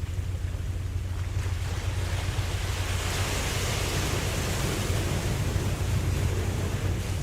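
Ocean wave: its hissing wash swells about a second and a half in, is loudest near the middle, and slowly fades, over a steady low rumble.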